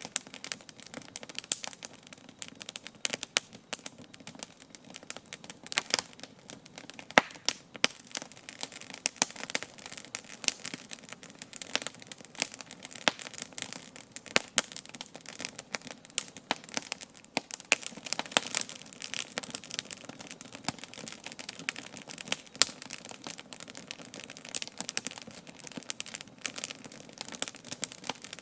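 Wood campfire burning and crackling: frequent irregular sharp snaps of burning wood over a soft steady hiss.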